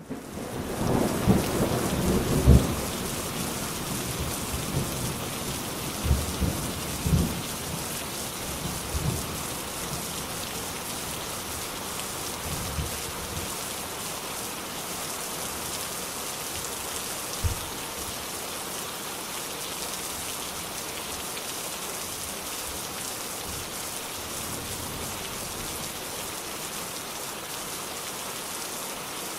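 Steady rain falling, with thunder rumbling and crackling loudly over roughly the first eight seconds, then fading away. A lone low thump comes about seventeen seconds in, and after that only the even hiss of the rain.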